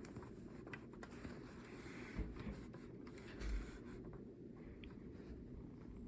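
Faint handling noise: light rubbing and scraping with scattered small clicks, and two soft low bumps, about two seconds in and about three and a half seconds in.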